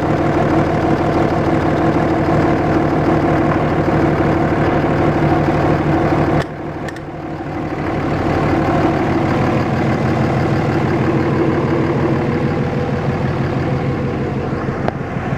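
Cummins 5.9 24-valve diesel idling steadily with heavy crankcase blow-by, caused by a bad injector. Its sound drops suddenly about six seconds in and builds back over the next two seconds.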